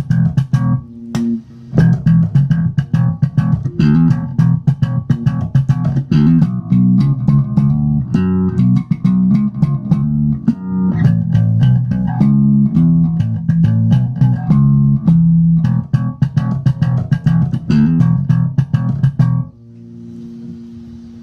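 Electric bass guitar played through a Hikari compressor pedal: a fast, busy run of plucked notes at a fairly even loudness, as the compressor keeps the overall volume level. Near the end the playing stops and a last note rings on more quietly before cutting off.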